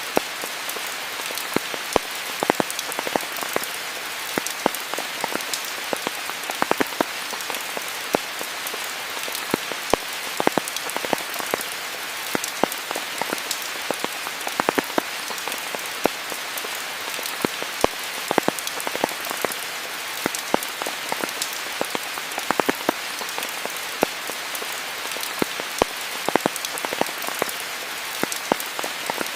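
Steady rainfall: a constant even hiss with frequent sharp taps of single drops landing close by.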